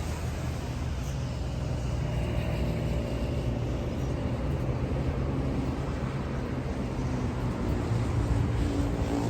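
A vehicle engine running steadily with a low hum, growing slightly louder toward the end.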